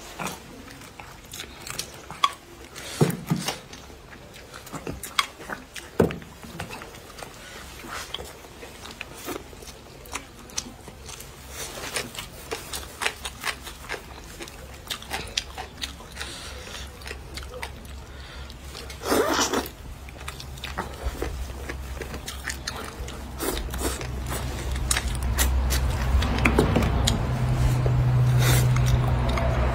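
Close-miked chewing and biting of food, with irregular clicks of mouth and chopsticks. From about two-thirds of the way in, a low motor-vehicle rumble grows louder in the background.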